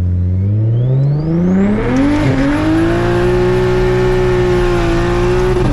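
Straight-piped, single-turbo BMW 335is (N54 3.0-litre straight-six) launching hard from a stop: the engine revs up quickly with a high turbo whine climbing alongside it. There is a quick upshift about two seconds in, then it pulls at high revs with the whine held, and shifts again near the end.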